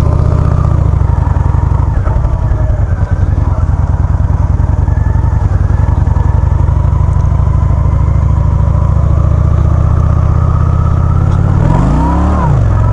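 Motorcycle engine running steadily under way, its pitch briefly rising and falling near the end.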